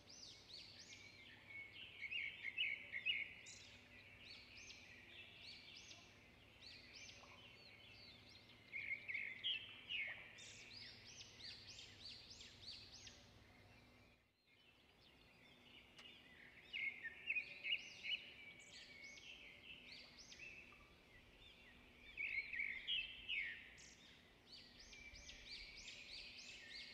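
Faint chirping of small birds in several short bursts of quick repeated notes, with a brief dropout near the middle.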